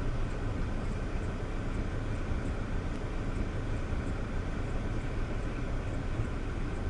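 Steady low rumble of a moving car's engine and tyres on the road, as heard from inside the vehicle.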